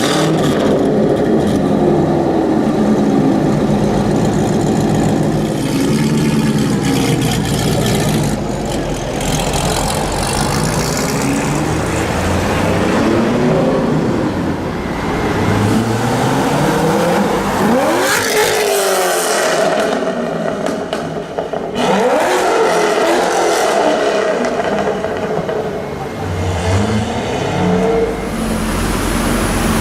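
Corvette V8 engines running loud with a deep rumble, revving up twice in rising sweeps past the middle.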